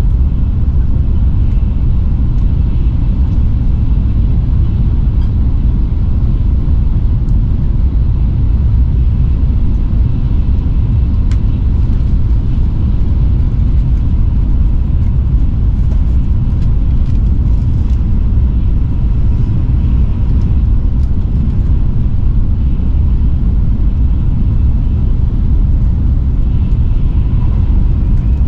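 Shinkansen bullet train running at speed, heard from inside the passenger car as a steady, loud low rumble.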